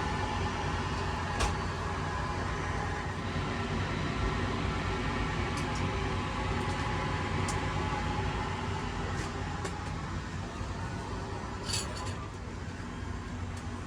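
Steady cabin air hum inside a parked Airbus A380, with a few short light clicks and clinks.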